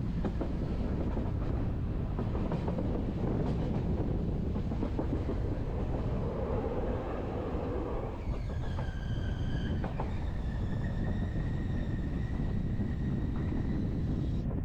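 Berner Oberland Bahn metre-gauge train running along the valley, a steady rumble of wheels on rail with occasional sharp clicks. About eight seconds in, a high, steady squeal joins and holds for several seconds, typical of wheel squeal on a curve.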